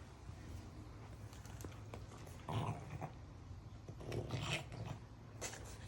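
French bulldog making two short throaty growling noises, about two and a half and four seconds in, over a steady low hum.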